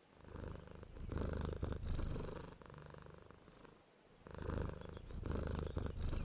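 A pet cat purring close up. The purr swells and eases in two long cycles, paced by its breathing.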